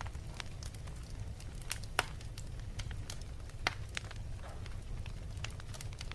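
Wood fire crackling in a fireplace: scattered sharp pops and snaps, two louder ones about two seconds in and past the middle, over a steady low rumble.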